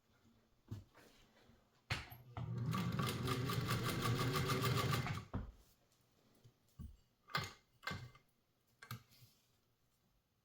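Domestic sewing machine stitching through layers of webbing strapping, running at a fast even rhythm for about three seconds and then stopping, with a sharp click just before it starts and a few light knocks and clicks afterwards.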